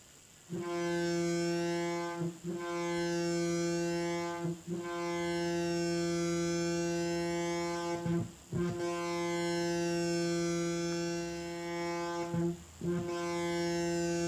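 Future Sound Systems Brunswick synthesizer's oscillator, run through its band pass filter, holding one steady droning note rich in harmonics, with the brightness of its upper harmonics slowly shifting. The note starts about half a second in and cuts out briefly four times.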